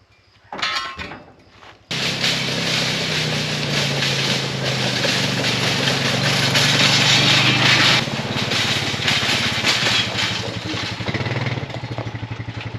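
ATV (quad) engine running steadily, coming in suddenly about two seconds in and easing slightly in level about eight seconds in.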